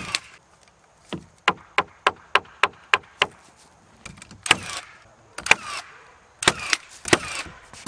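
Nails being driven into wooden framing lumber: a quick run of about eight sharp strikes, about three a second, then four louder strikes spaced about a second apart.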